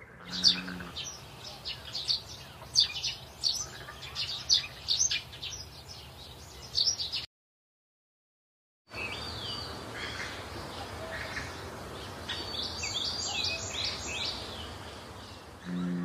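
Birds chirping and tweeting in many quick, high calls over a steady outdoor background. The birdsong cuts out for about a second and a half just past the middle, then resumes with a different run of chirps.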